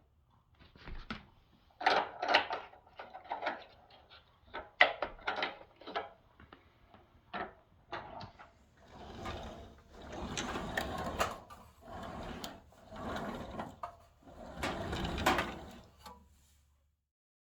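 Handling noises: a run of sharp knocks and clicks, then several longer scraping or rubbing sounds, each about a second long, stopping shortly before the end.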